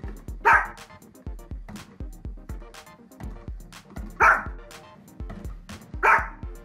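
A dog barking three times, single short sharp barks about a second in, around four seconds in and near the end, over background music with a steady beat.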